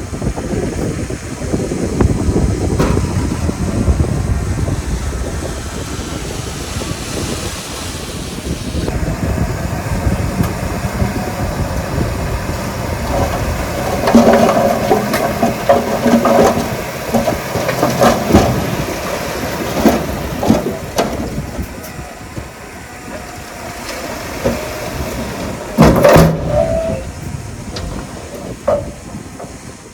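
Heavy diesel earthmoving machinery at work: a low engine rumble, then metallic clanking and squealing, with a loud clank a little before the end.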